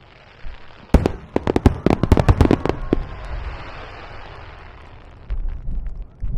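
Aerial fireworks shells bursting in a rapid volley of about a dozen sharp bangs, followed by a fading hiss.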